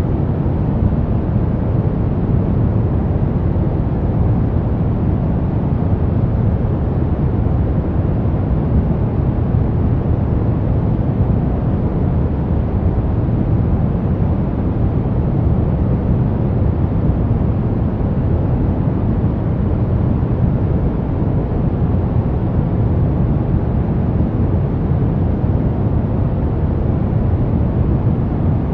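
Brown noise: a steady, deep rumbling hiss with most of its weight in the low end and little at the top, unchanging throughout.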